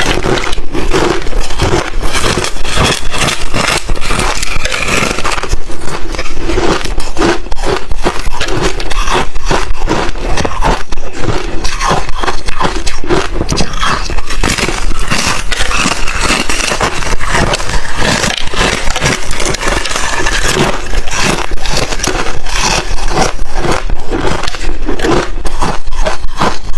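A person chewing crushed ice: loud, rapid, continuous crunching and crackling, many bites packed closely together.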